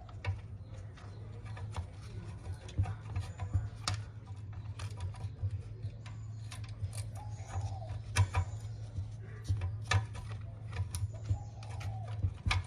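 A steady low hum with irregular sharp clicks and taps over it.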